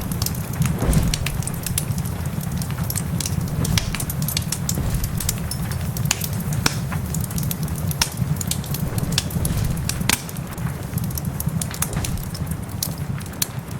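Wood fire crackling in a fireplace, with sharp irregular pops and snaps over a steady low rumble, and rain hissing softly behind it.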